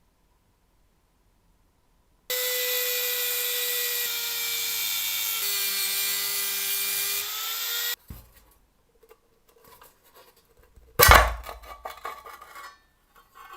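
An electric power tool working on a part for about five and a half seconds, its pitch dropping and shifting under load, then cutting off suddenly. A few seconds later comes one sharp knock with brief ringing, among light clicks of handling.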